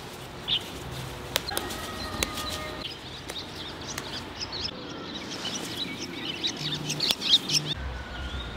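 Birds chirping and calling, with many short high chirps that are busiest near the end, over a low steady background hum.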